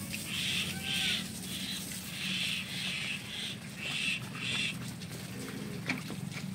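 A bird calling over and over in short high notes, often in pairs, over a steady low hum.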